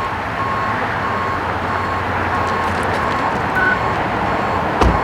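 A vehicle's electronic warning beeper sounding a short, even beep about one and a half times a second over the rumble of idling engines and traffic. There is a dull thump near the end.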